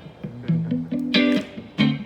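Guitar strumming chords in a song intro: three strokes, each left to ring into the next.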